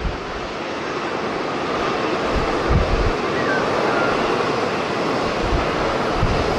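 Strong wind buffeting the microphone, with low thumps every second or two over a steady roar.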